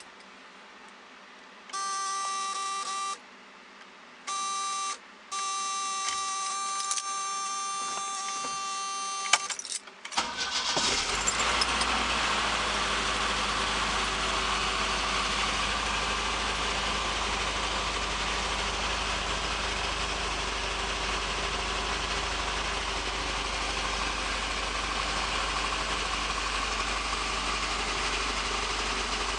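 1973 Opel GT's four-cylinder engine being cold-started. A steady electrical whine sounds three times over the first ten seconds. The starter then cranks briefly and the engine catches about ten seconds in, then idles steadily.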